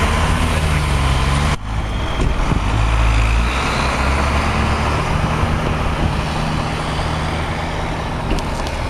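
Large truck engine idling with a steady low hum over outdoor traffic noise; the sound breaks off abruptly about a second and a half in and the idling picks up again.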